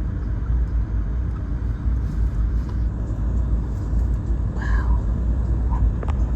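Steady low rumble of a 1980s Ford Bronco driving along beach sand: engine and tyre noise. A brief faint call is heard about two-thirds of the way through.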